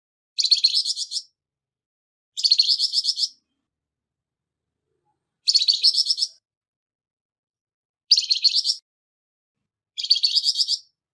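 Flamboyan bird giving its harsh call: five short bursts of quick, rattling high notes, each under a second long and about two to three seconds apart.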